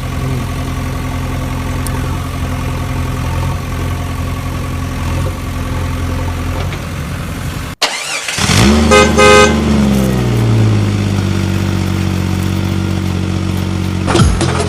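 Steady vehicle engine hum that cuts off suddenly about halfway, followed by a few short horn honks and an engine note that falls in pitch, then runs steadily.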